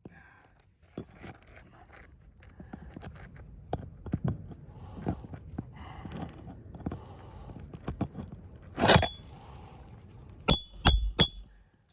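Scraping and rustling of asphalt shingles being worked by hand, with scattered knocks and a loud scrape just before nine seconds in. Near the end comes a quick run of four or five sharp metal-on-metal hammer strikes on a roofing nail, each ringing briefly.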